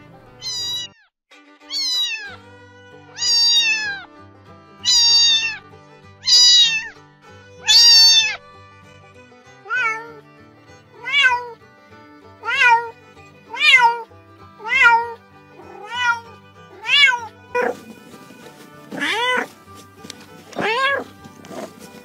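Domestic cat meowing over and over, about fifteen meows a second or so apart, each falling in pitch, over quiet background music.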